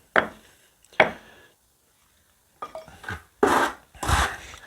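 Two sharp knocks, then rough scraping about three and a half seconds in, as a brick and spirit level are handled on fresh masonry mortar.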